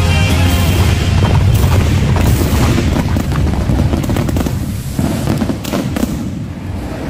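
Aerial fireworks going off in quick succession, a rapid run of bangs and crackles over a deep rumble, as the show's music ends about half a second in.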